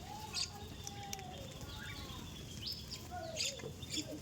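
Several birds calling together: a scatter of short chirps and arched whistled notes, some mid-pitched and some high, overlapping one another.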